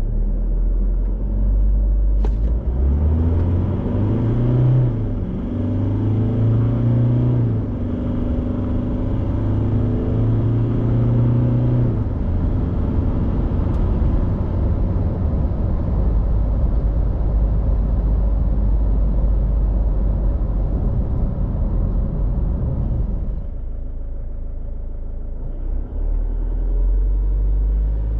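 The 3.0-litre turbo-diesel four-cylinder of a 2022 Isuzu D-Max accelerating hard from a standstill, its pitch climbing and dropping back at each automatic upshift, three times in the first twelve seconds. It then settles into a steady drone of engine and road noise at speed, easing off near the end.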